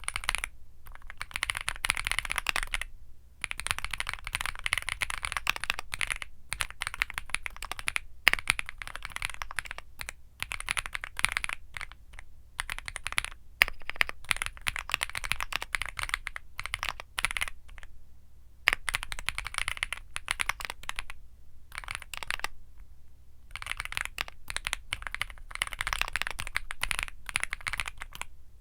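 Womier SK75 mechanical keyboard with Womier Mint Blizzard switches being typed on fast, in long runs of rapid keystrokes broken by short pauses every few seconds.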